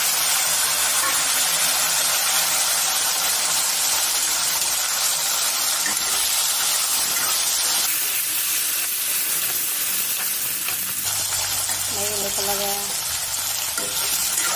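Peeled taro pieces sizzling steadily in hot oil in a metal wok, stirred with a spatula.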